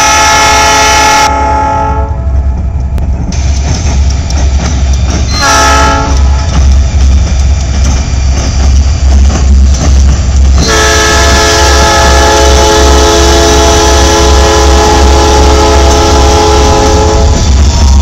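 Diesel freight locomotives passing at close range with a deep, steady engine rumble. Over it a multi-note train air horn sounds: a long blast ending about two seconds in, a short toot around five and a half seconds, and another long blast from about ten and a half seconds until shortly before the end.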